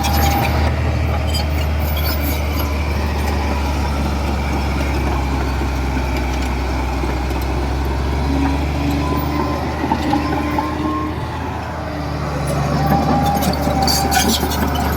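Heavy earthmoving machine's diesel engine running steadily with a deep hum. It eases off briefly near the end and then picks up again, with scattered metallic clanks and squeaks near the start and near the end.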